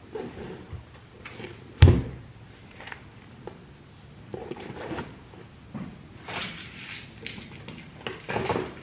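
Handling noises of items being picked up, moved and set down: scattered clunks and rustles, with one sharp, loud knock a little under two seconds in.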